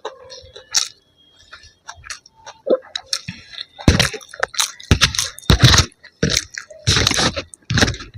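A person chewing crunchy food. There are a few light mouth clicks at first, then loud crunching chews from about four seconds in.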